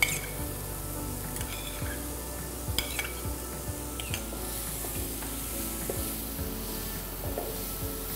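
Crab meat and onion-tomato masala frying in a pan and being stirred with a spatula: a steady sizzle, with the spatula scraping and a few sharp taps on the pan.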